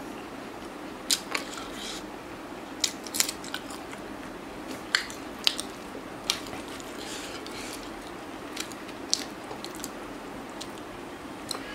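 Eating sounds: a person chewing chicken and rice eaten by hand, with scattered sharp wet clicks and smacks over a steady low hiss.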